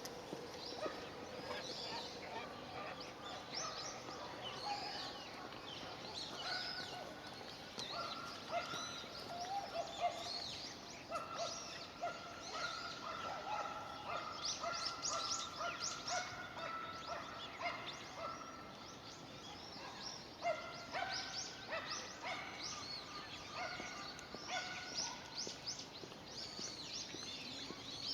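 Many birds calling at once: a dense, continuous chorus of short overlapping chirps and calls, with some notes held or repeated.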